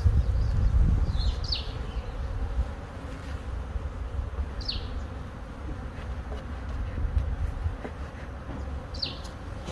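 Honeybees buzzing from a colony being moved out of a wall, with a steady low hum that is loudest in the first two seconds. A bird gives a short, high, falling chirp three times, a few seconds apart.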